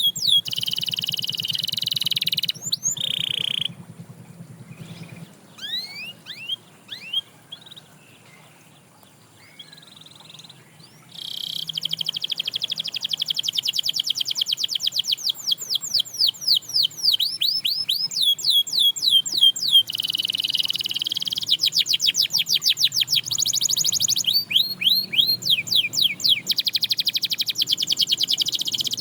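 Domestic canary singing in fast rolling trills of rapidly repeated high notes. From about four seconds in the song thins to a few scattered notes, then the loud rapid trills return about eleven seconds in and continue.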